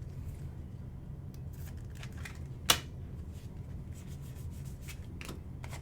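Trading cards being handled and flipped through: faint scattered clicks and rustles, with one sharp click about two and a half seconds in, over a steady low hum.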